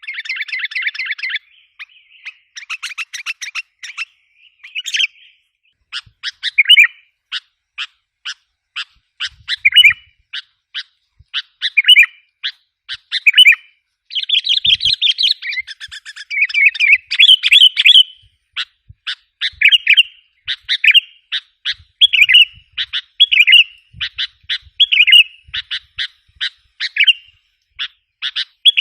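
Sooty-headed bulbul (kutilang) calls from a lure recording: short phrases repeating about once a second, each a quick run of sharp ticks ending in a burst of chattering notes. The chatter runs on continuously near the start and again around the middle.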